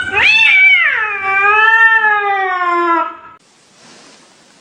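A cat giving one long, drawn-out meow that rises at the start and then slowly falls in pitch, ending about three seconds in.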